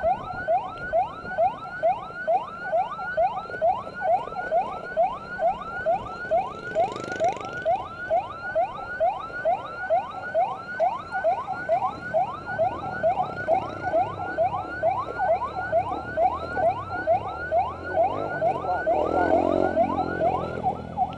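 Electronic multi-tone motorcycle siren on a fast yelp, each note rising sharply and repeating about two to three times a second. A brief hiss comes about seven seconds in, and a passing vehicle's sweep near the end.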